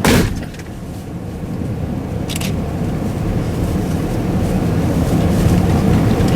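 A vehicle door shuts with a single bang at the start. The vehicle's engine and road noise follow as a steady low rumble that slowly grows louder as it gets moving, with one short sharp click about two and a half seconds in.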